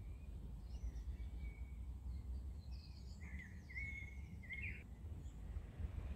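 Songbirds chirping in short, high notes with quick pitch sweeps, busiest about three to five seconds in, over a steady low rumble.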